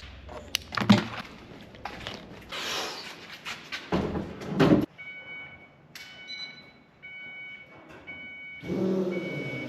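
Metal clanks and knocks from fitting a truck battery, then a dashboard warning chime beeping about once a second. About nine seconds in, the truck's engine starts and runs.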